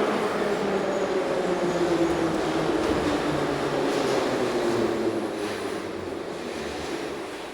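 Ezh3 subway car rolling and slowing, its whine falling in pitch and the running noise dying away over the last couple of seconds as the train brakes.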